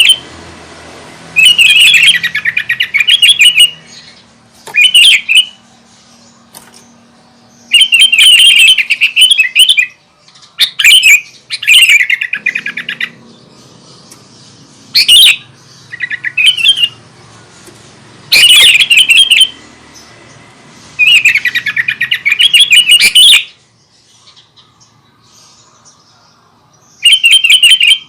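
Sooty-headed bulbul (kutilang) in full song: loud bursts of quick notes, each a second or two long, repeated with short pauses, and a longer pause about three-quarters of the way through.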